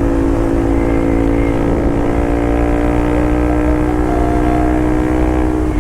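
Bajaj Pulsar RS200's single-cylinder engine and exhaust held at a steady high engine speed while riding, with a low wind rumble underneath.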